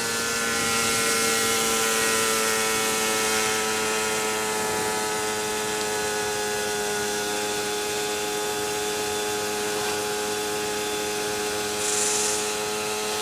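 KTM EXC 125's single-cylinder two-stroke engine running steadily under way at road speed, still warming up, its note drifting slightly lower over the stretch. Rushes of high hiss come near the start and again near the end.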